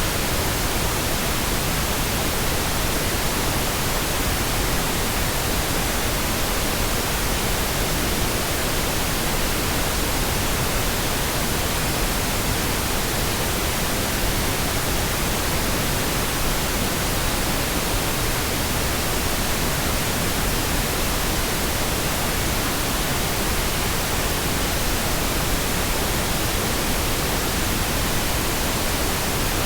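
Steady synthetic pink noise: an even, unchanging hiss spread across all pitches, with no breaks.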